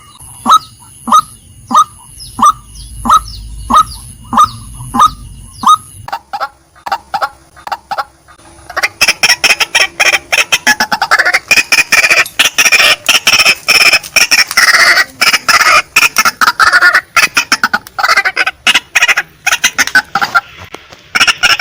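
Female white-breasted waterhen calling: short single notes repeated about one and a half times a second, then from about nine seconds in a loud, rapid chattering run of calls.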